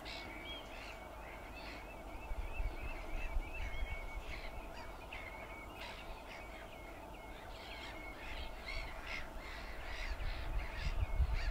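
Wetland birds calling in a steady run of short, repeated notes, about three a second, with wind rumbling on the microphone, stronger a couple of seconds in and near the end.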